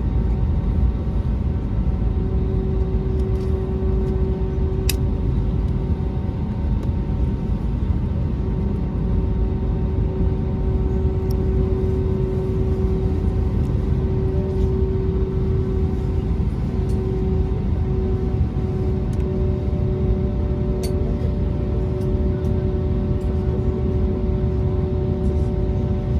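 Airbus A320neo cabin noise while taxiing in to the stand, heard from inside the cabin: a steady low rumble from the engines at idle, with a constant hum of several steady tones.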